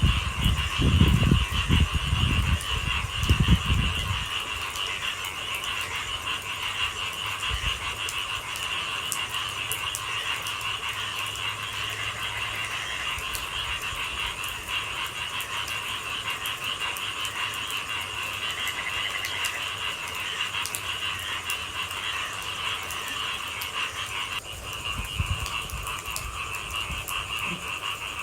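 A dense chorus of frogs calling steadily. Low rumbling thumps come through in the first few seconds and again near the end.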